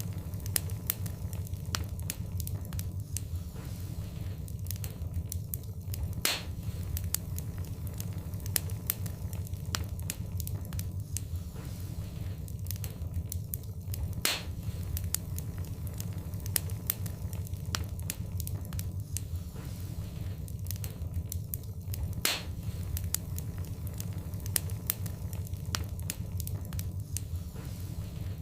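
Wood fire burning in a fireplace, crackling with many small snaps over a steady low rumble. Three louder pops come about eight seconds apart.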